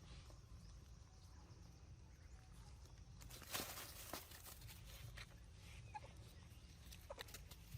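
Near silence: faint outdoor ambience with a low steady hum, a brief rustle about three and a half seconds in, and a few light clicks.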